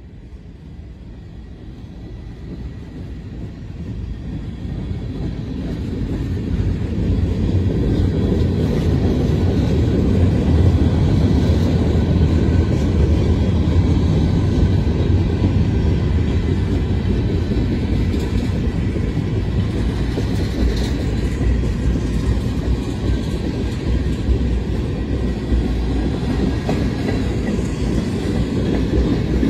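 Freight train tank cars and gondolas rolling past, their steel wheels running on the rails in a steady low-pitched noise. It grows louder over the first six or seven seconds, then holds steady.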